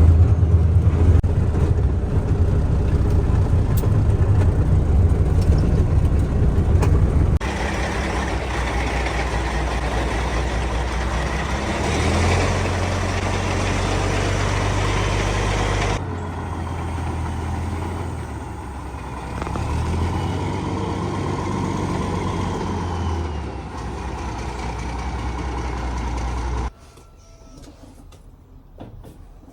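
A vehicle's engine running steadily while driving, its low drone shifting slightly in pitch across a few abrupt changes. Near the end it cuts to a much quieter stretch with a few clicks.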